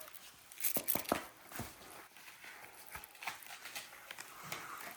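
Rustling and light irregular knocks of plastic-shelled knee pads being handled and strapped on, with a cluster of louder clicks about a second in.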